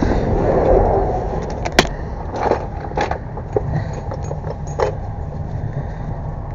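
Gear being handled: a scrape and rustle in the first second, then a handful of sharp clicks and knocks, over a steady low rumble.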